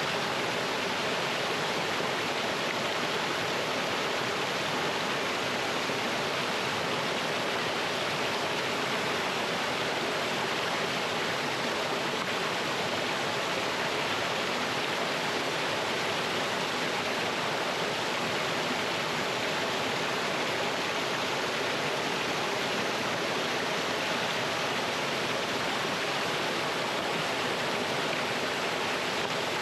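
Mountain stream rushing over rocks in a small waterfall, a steady, even rush of water.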